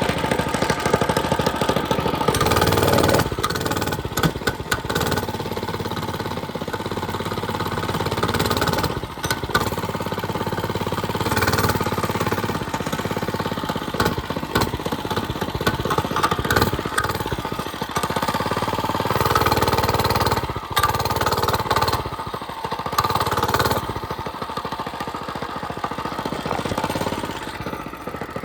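Small mini bike engine running while the bike is ridden, its note swelling and easing off several times with the throttle.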